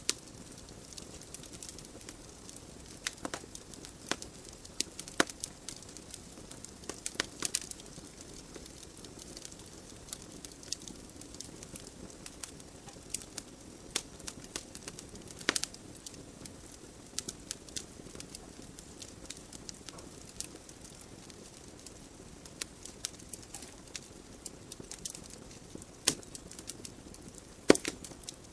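Wood fire burning in a fireplace: irregular sharp crackles and pops from the burning logs over a steady soft hiss of the flames, with a few louder pops midway and near the end.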